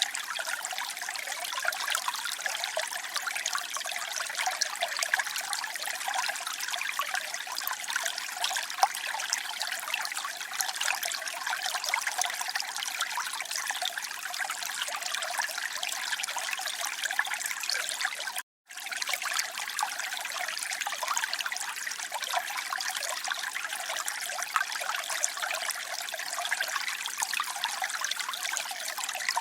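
Flowing water trickling and splashing steadily, a dense, bright rush. It cuts out for an instant about two-thirds of the way through.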